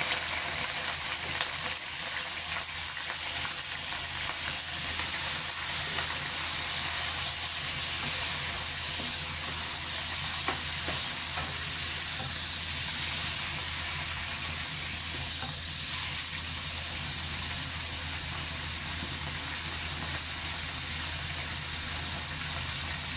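Pieces of beef liver sizzling as they fry in hot oil in a nonstick wok, stirred now and then with a wooden spatula.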